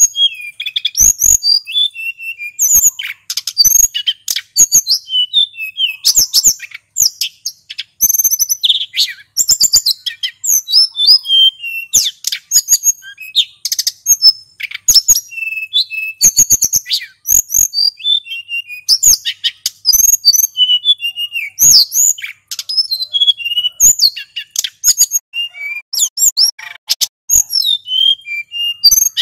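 Male sulingan gunung songbird singing without pause, a fast run of varied whistles, trills and chirps with short sharp clicks between the phrases.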